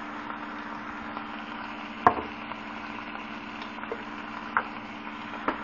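Chicken and sauce sizzling and simmering in a frying pan over a steady low hum, with a sharp clack about two seconds in and a few lighter clicks of a utensil against the pan.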